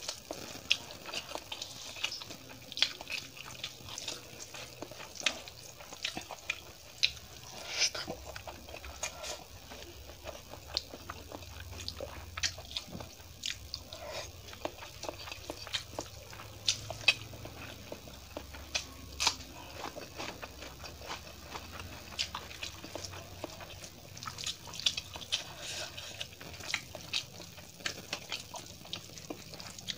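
Close-miked eating sounds: chewing and wet mouth clicks as rice with shahi paneer curry is eaten by hand, with squishing as the hand mixes rice and curry on a steel plate. Many short sharp clicks come at an irregular pace.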